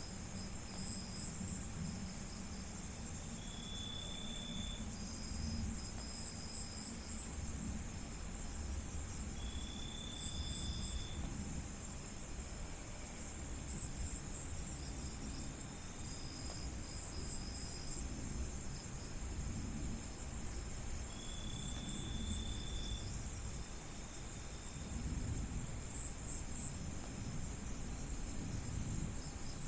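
Night chorus of crickets, a continuous high-pitched trilling with shorter trills coming and going over it. Three times a separate, lower insect note sounds for a second or two. A low rumble sits underneath throughout.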